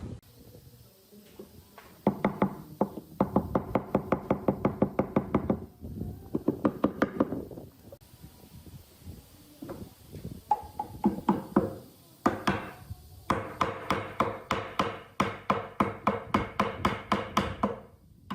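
Rapid hammer blows, about five a second, in several runs of one to three seconds with short pauses between, each run carrying a ringing tone.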